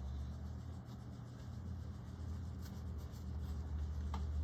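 Faint rubbing and scratching of a paintbrush being cleaned, over a low steady hum, with a short click about four seconds in.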